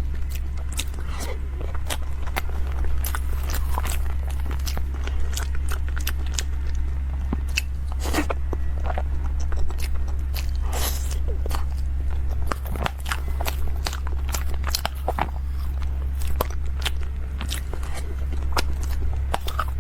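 Close-miked eating: biting and chewing a dessert, with many irregular sharp clicks and crackles from the mouth. A steady low hum runs underneath.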